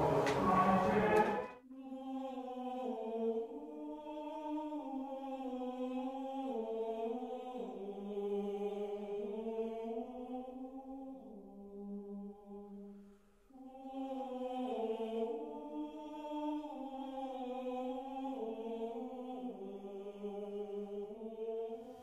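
Choir chanting a slow melody in unison, in two long phrases with a short pause about halfway through. It cuts in abruptly after a brief, louder noise at the very start.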